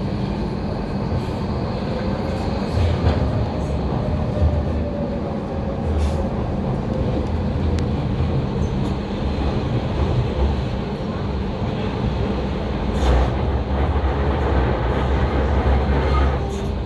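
Docklands Light Railway train running on the track: a steady low rumble, with a few sharp clicks as the wheels pass over rail joints. A faint whine rises and then slowly falls in pitch over the first half.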